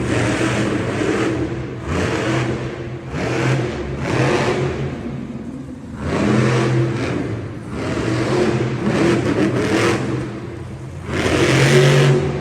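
Vehicle engines revving in repeated surges, rising and falling every couple of seconds, with the loudest surge near the end.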